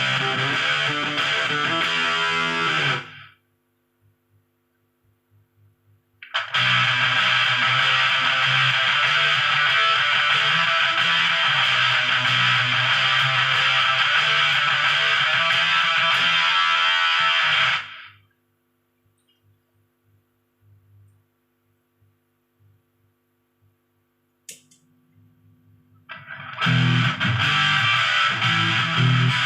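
Electric guitar played through an MXR Sub Machine fuzz pedal, heavily distorted riffs in three passages. The first ends about three seconds in, the second runs from about six to eighteen seconds, and the third starts about four seconds before the end. Between them only a faint amp hum and a single click.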